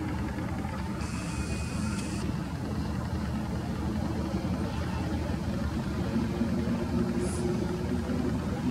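Approaching train locomotive, its engine running with a steady low rumble and a faint hum that rises a little in pitch in the second half. A short high hiss comes about a second in.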